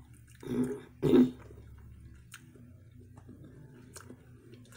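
A person chewing a mouthful of corn on the cob. There are two short throaty vocal sounds through the full mouth, about half a second and a second in, the second louder, then quieter chewing with a few small clicks.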